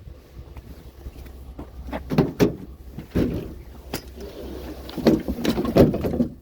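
A series of knocks and clunks, as of objects being handled and set down, over a low steady hum.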